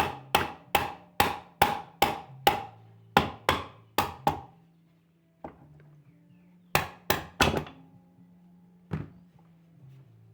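A hammer lightly tapping on an old Brastemp washing machine's gearbox to ease a part slowly down into place. There is an even run of about a dozen quick taps, then a pause, then three taps close together and one last single tap.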